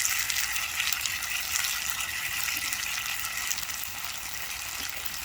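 Steak and potatoes sizzling in a frying pan over a campfire: a steady frying hiss with small crackles, easing slightly toward the end.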